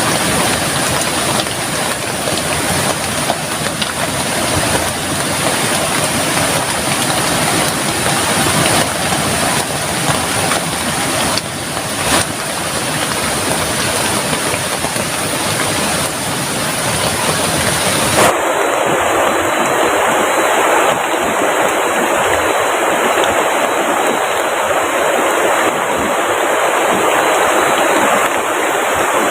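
Steady, heavy rain falling, mixed with the rush of river water. About 18 seconds in, the sound changes abruptly to a thinner version with less low rumble.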